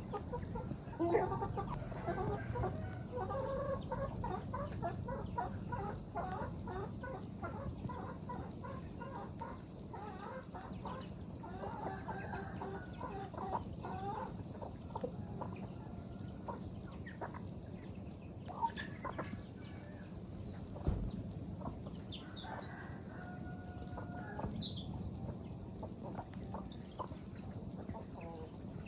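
A flock of farm chickens clucking, with many quick calls overlapping in the first half and sparser, longer drawn-out calls later.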